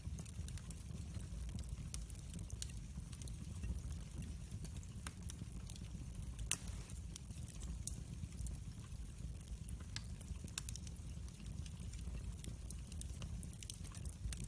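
Wood fire burning: irregular crackles and small pops over a low steady rumble, with one louder pop about six and a half seconds in.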